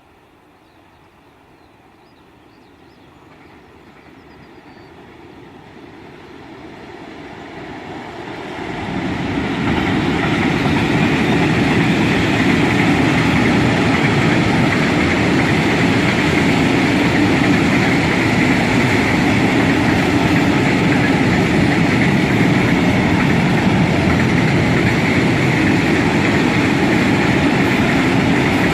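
Freight train approaching, growing steadily louder over about ten seconds, then passing close by with the steady noise of its wagons rolling on the rails.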